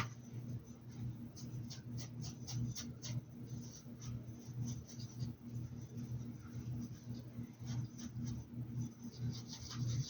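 Short, irregular scratchy strokes of a paintbrush working paint onto a hat, over a steady low hum.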